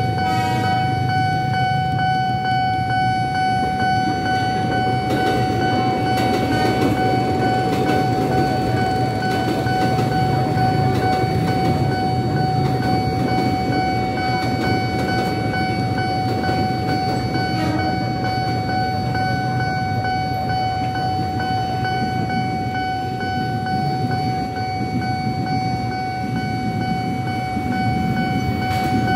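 KRL electric commuter train rumbling past over a level crossing, mixed with idling motorcycles. Over it, a steady high electronic tone from the crossing's warning alarm.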